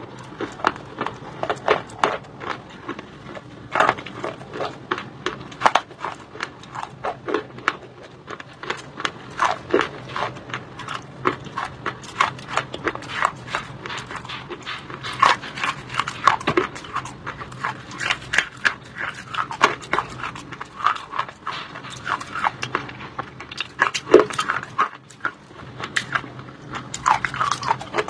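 A person crunching and chewing pieces of white shale stone close to the microphone: a dense, irregular run of crisp crunches and clicks, several a second.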